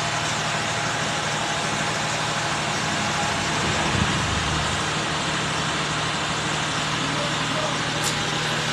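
Mahindra XUV's mHawk diesel engine idling steadily after a decarbonization (carbon-cleaning) service, with a brief low swell about four seconds in.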